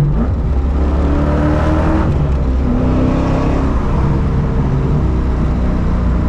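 Cammed 6.2 L LS3 V8 in a Subaru BRZ running loud under way, its pitch rising about a second in and dropping around two and a half seconds in.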